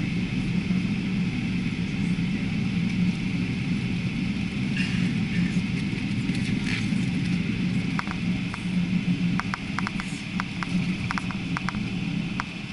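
Steady jet-engine rumble and air hiss heard inside the cabin of an Air France Boeing 777, with a scatter of light clicks and rattles in the second half.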